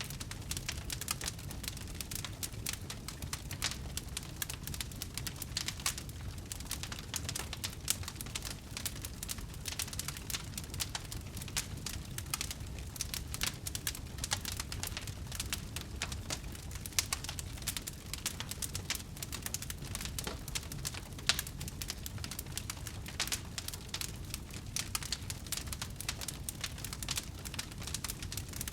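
Wood fire burning, with a constant stream of small sharp crackles and pops over a low rumble of the flames.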